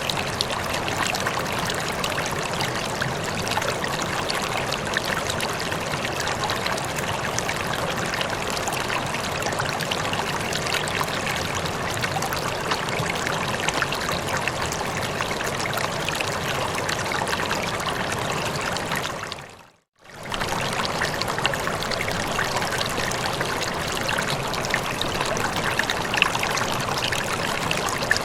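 Running water flowing steadily with a dense, even splashing rush. It fades out to a brief silence about two-thirds of the way through and comes straight back.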